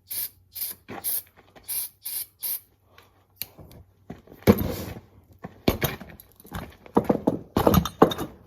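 Aerosol can of brake cleaner giving a run of short hissing sprays, squirted into a small tire to try to seat its bead on the rim; a loud sudden thump follows about halfway, then several sharp knocks near the end.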